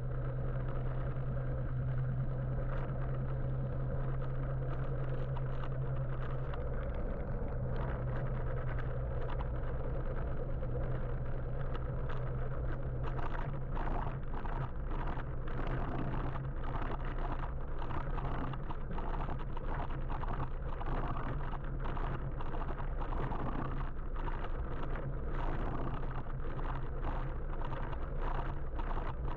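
Steady road and traffic noise heard from a moving electric motorbike. A steady low hum weakens about seven seconds in, and from about halfway on there are frequent short knocks or buffets.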